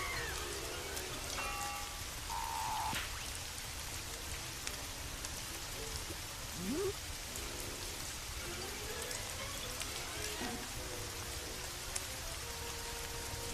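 Steady rain falling, with faint short tones and pitch glides and a few sharp clicks mixed in.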